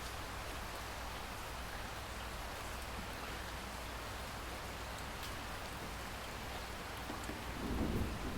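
Steady rainfall with scattered drops ticking, then a low rumble of thunder building near the end.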